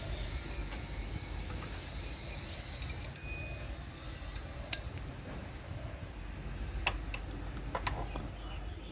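Scattered light metallic clicks and clinks from hand work on a motorcycle engine, pulling off the spark plug cap and sleeve, over a low steady background hum.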